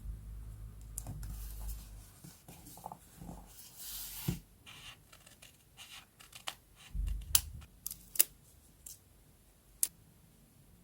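Paper and stationery being handled close up: rustling and scraping of paper, then a series of sharp clicks and taps, the loudest two a little past the middle.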